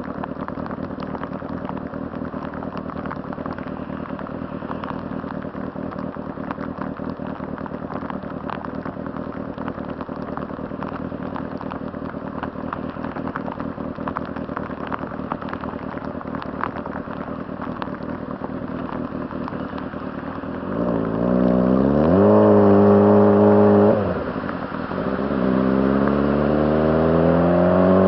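Honda CBR600RR inline-four idling steadily with a light clatter. About twenty seconds in it revs up and pulls away, holds for a couple of seconds, drops at a gear change, then climbs again.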